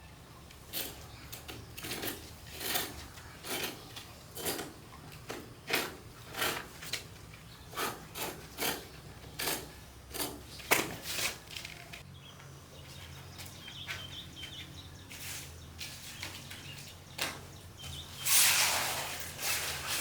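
A series of short scraping or rustling strokes, about one to two a second, thinning out after about twelve seconds, with one longer, louder rush of noise near the end.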